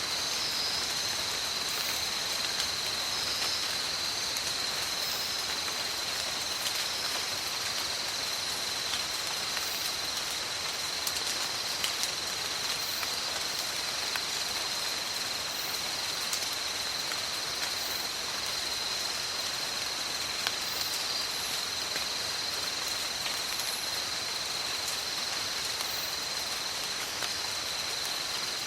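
Steady rain falling in a tropical forest, an even hiss with scattered drop ticks. A constant high-pitched tone runs over it throughout.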